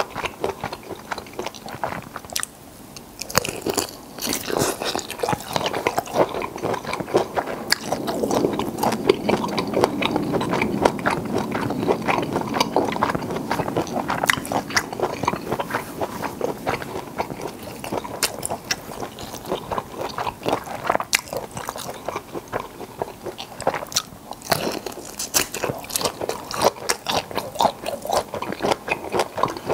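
Close-miked chewing of black tiger shrimp meat: wet, smacking mouth sounds with many small, irregular clicks and crackles.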